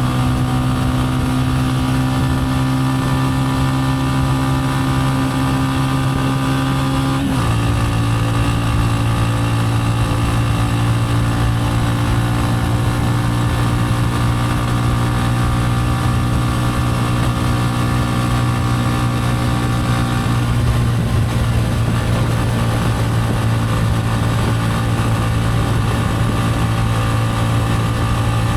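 Gilera AC4 motorcycle engine running at a steady cruising speed, with road and wind hiss. About seven seconds in, its pitch steps down slightly with a click, then holds steady again.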